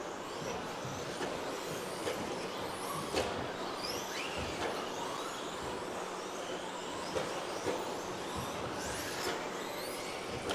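Electric 1/10 RC trucks with 13.5-turn stock brushless motors racing round a track, their motor whine rising and falling again and again as the cars accelerate, brake and pass, over a steady rushing noise with a few light knocks.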